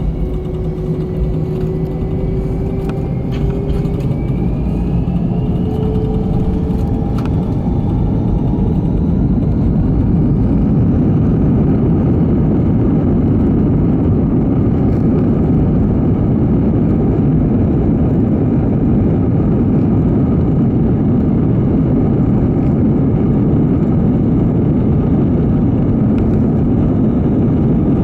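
Airbus A320 jet engines spooling up to takeoff thrust, heard from inside the passenger cabin: a whine rising in pitch over the first several seconds while the noise builds, then a loud steady roar of the takeoff roll.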